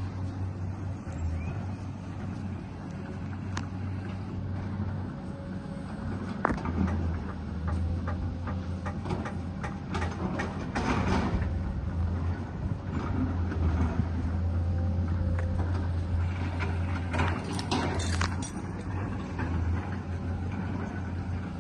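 Excavator diesel engine running steadily with a low hum. Clusters of metallic clanks and knocks come about a third of the way in and again near the end.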